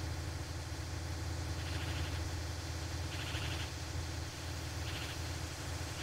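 Bird twittering in short, fast trills, three in a row about a second and a half apart, over a steady low rumble of forest ambience.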